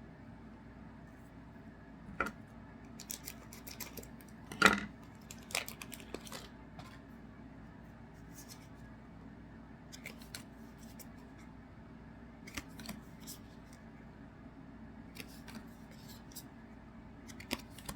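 Trading cards and card packs being handled and sorted: scattered light clicks and rustles, with the sharpest snap about four and a half seconds in.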